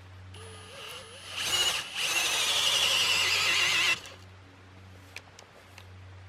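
A hand-turned boring tool squeals as it bites into wood, giving a loud, wavering, high squeal for about two seconds before it cuts off sharply. A brief squeak comes just before it.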